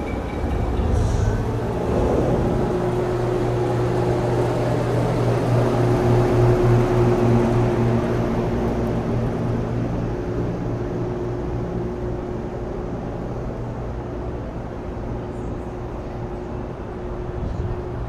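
Street traffic with a vehicle engine running steadily, a low hum over a wash of road noise that swells slightly in the middle and then eases off.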